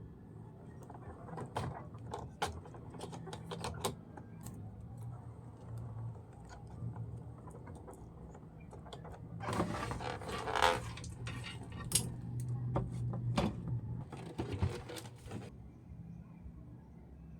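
Tools and small parts clicking and clattering as a turntable is taken apart, with a low hum underneath and a denser stretch of rattling and rustling about ten seconds in.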